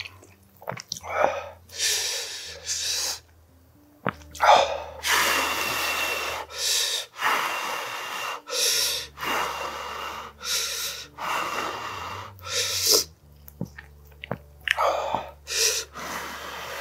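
Close-miked eating sounds: a man chewing mouthfuls of kimchi and rice from tuna kimchi stew, in a string of loud, noisy bursts about a second each.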